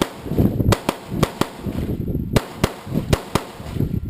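AR-15 carbine firing in two quick strings of about five shots each, with a short pause between them. A steady low wind rumble on the microphone runs under the shots.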